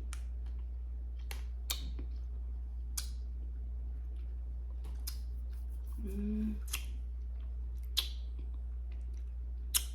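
A steady low hum with scattered sharp clicks, about one every second or two, and a short hummed voice sound about six seconds in.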